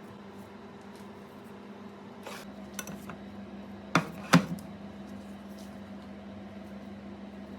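Kitchenware clattering: a few light clicks, then two sharp knocks close together about four seconds in, over a steady low hum.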